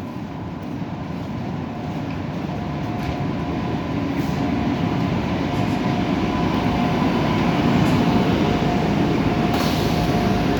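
MBTA Green Line light-rail train pulling into the station: the rumble of its wheels on the track grows steadily louder, with a thin steady whine over it. There is a short sharp click about nine and a half seconds in.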